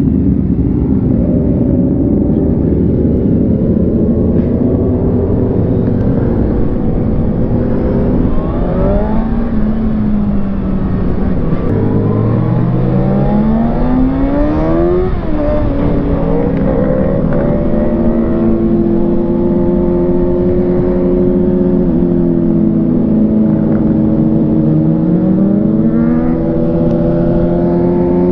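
Kawasaki ZX-6R 636 sport bike's inline-four engine accelerating under way, its pitch climbing for a few seconds about halfway through, dropping sharply at an upshift, then holding steady at cruise, under a constant heavy wind rumble.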